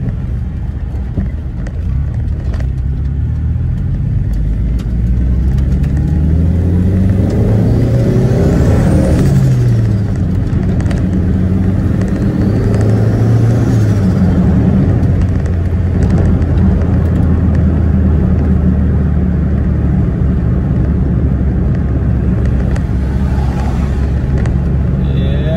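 Turbocharged Chevrolet Corsa pickup engine driving under way with a steady drone. It revs up twice, each time dropping sharply as the driver shifts up or lifts off.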